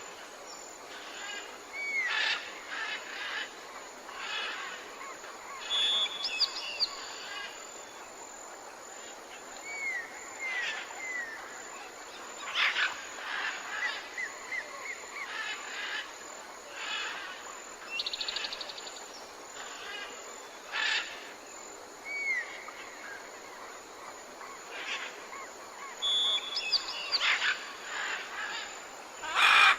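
Birds chirping and calling: short chirps, quick trills and little rising call notes, several voices overlapping, over a steady hiss. The same run of calls comes round again about twenty seconds later, as in a looped recording.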